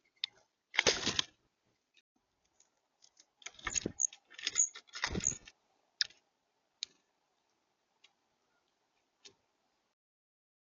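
Birds working a bird feeder: a few short, rough scrabbling and rustling bursts with sharp clicks in between, like beaks and feet on the feeder and seed, then a few isolated ticks.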